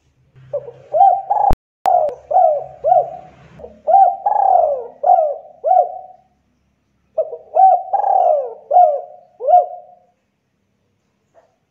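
Spotted dove (tekukur) cooing: two phrases of repeated, rising-and-falling coos, the second starting after a pause of about a second. A single sharp click sounds about one and a half seconds in.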